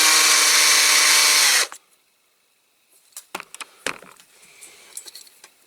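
Small electric drill spinning up with a rising whine, drilling out a rivet in a diecast model for about a second and a half, then stopping. A few light clicks of small metal parts being handled follow.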